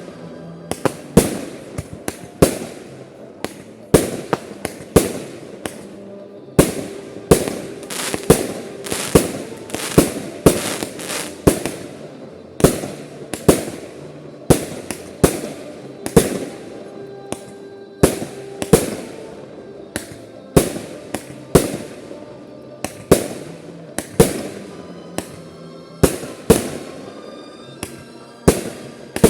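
Aerial fireworks shells bursting in a steady barrage of loud sharp bangs, about one or two a second, some landing in quick doubles.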